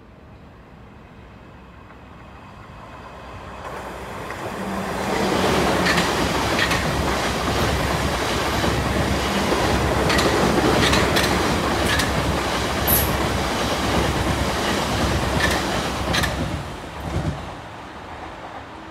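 Electric multiple-unit passenger train passing at speed on third-rail track: its rumble builds over the first few seconds, stays loud and steady with scattered sharp clicks from the wheels on the track and a brief low hum, then fades away near the end.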